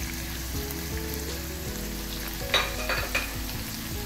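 Minced beef and onion sizzling as they fry in a pan, stirred with a wooden spatula, with a few short sharper sounds about two and a half to three seconds in.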